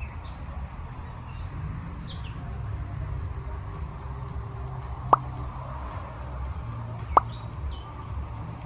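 A few short, high, falling bird chirps over a steady low rumble, with two sharp clicks about two seconds apart midway through.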